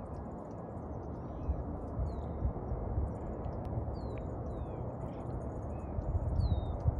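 Birds calling outdoors: short, down-slurred whistled notes about every second, over a steady low rushing noise with occasional low thumps.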